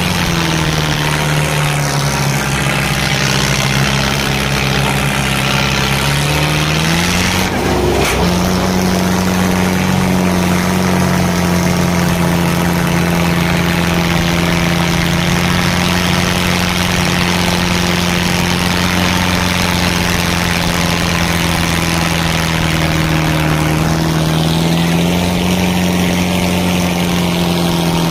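Tractor diesel engine running steadily at high revs. Its pitch drops about a second in, climbs back about eight seconds in, and dips again near the end.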